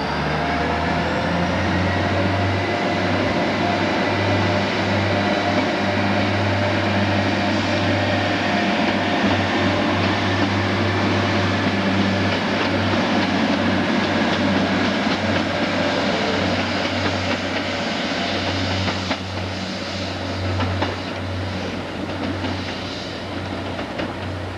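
A diesel train running through, its engine and rail noise steady for most of the time. A whine rises in pitch over the first two seconds, and the sound eases off over the last few seconds.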